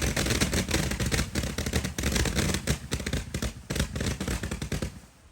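Pyroland Monster-Kometentonne, a 4480-shot comet firework barrel, firing a rapid, dense stream of shots that thins to scattered pops near the end as the barrel burns out.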